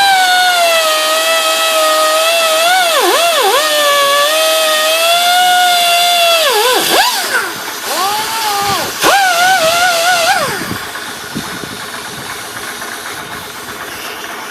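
High-speed electric power tool whining steadily, its pitch dipping sharply several times as it is loaded into the work. It shuts off about ten seconds in, leaving a steady hiss.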